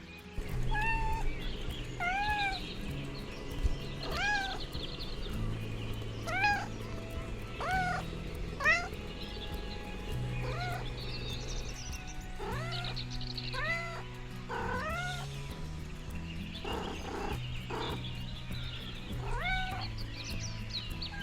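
A kitten meowing over and over, high rising-and-falling meows every second or two, over background music with sustained low notes.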